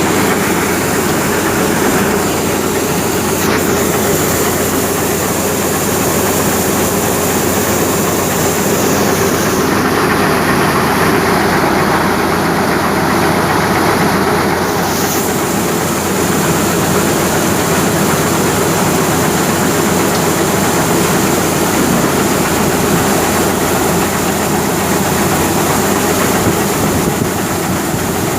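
Tractor-powered wheat thresher running steadily, with the tractor's engine and the threshing machinery making loud, unbroken mechanical noise.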